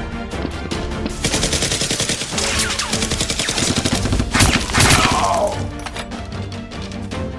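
Rapid automatic gunfire sound effects over action music, with two louder blasts a little past the middle followed by a falling whoosh.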